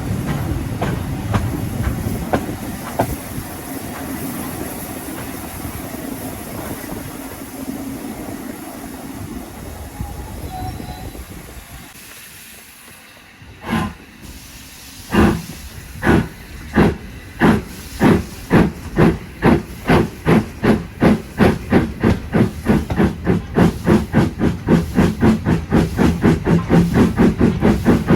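Steam locomotive starting away. Hiss and rumble die down to a lull, then a single exhaust blast comes about 14 seconds in. From about 15 seconds regular exhaust chuffs follow and quicken steadily to around three a second as the engine picks up speed.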